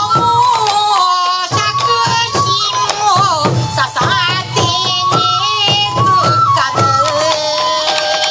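Traditional Sansa odori music: a high, held melody that steps from note to note, over dense, evenly repeated drum strokes.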